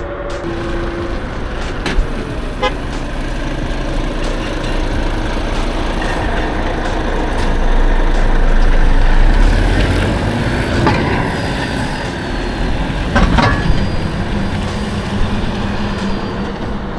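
Riding noise from a KuKirin G2 electric scooter: wind rumbling on the camera microphone with tyre and road noise, swelling louder about halfway through, with a few sharp knocks and rattles over the ground.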